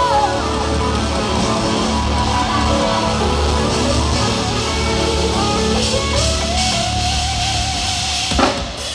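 Live gospel quartet band playing an instrumental passage: guitar in front over a steady deep bass, with a long held note in the second half and a sharp hit near the end.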